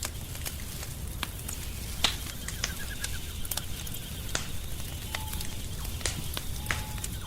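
Wood fire crackling, with irregular sharp pops and snaps of burning wood over a low, steady rumble. The loudest pop comes about two seconds in. Two faint short tones come near the end.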